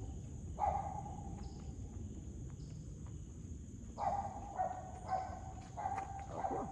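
Steady high-pitched insect drone, with several short pitched calls or squeaks: one near the start, then a cluster of five or so over the last three seconds.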